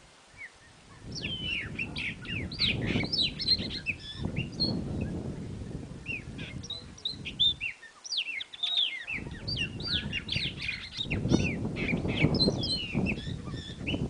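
Wild birds calling: a dense run of quick chirps and falling whistles from several overlapping birds, over a low rumble that drops out briefly about eight seconds in.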